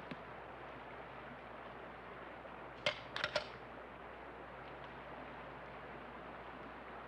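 Steady low rush of river water, broken about three seconds in by a quick cluster of about four sharp clicks or knocks.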